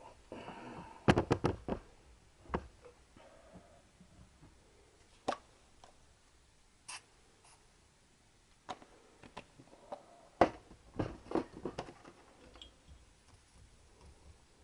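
Irregular clicks and knocks of metal tools and parts being handled on a workbench, in two brief clusters about a second in and again near the end, with a few single taps between.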